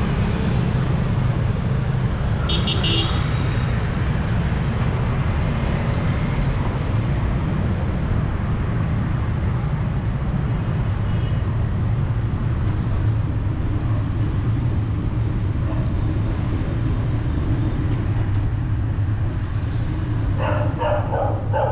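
City street traffic with a steady low rumble, a short vehicle horn toot about two and a half seconds in, and a dog barking in short yips near the end.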